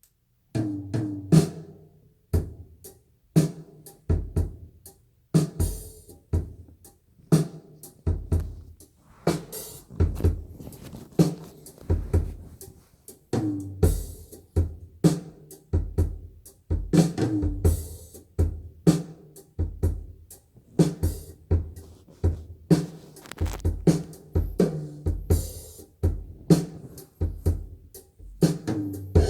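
Drum-kit music with a steady beat of kick drum, snare and hi-hat, played through B&W Nautilus 802 floor-standing loudspeakers and recorded on a phone.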